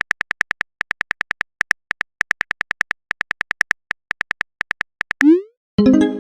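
Phone keyboard typing sound effect: rapid, evenly pitched clicks, about seven a second. Near the end the clicks stop, followed by a short rising swoosh and a pitched message-notification chime.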